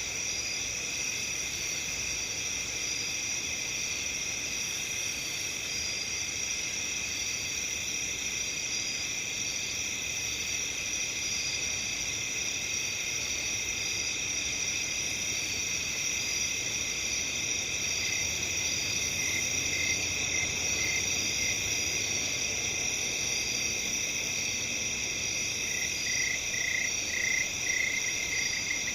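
Steady high-pitched chorus of crickets chirping together. Over the chorus, a single cricket sounds a run of short, quick pulses twice, in the second half.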